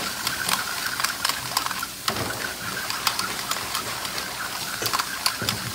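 Thinly sliced beef and onion sizzling in a hot stainless steel wok: a steady frying hiss with frequent crackling pops.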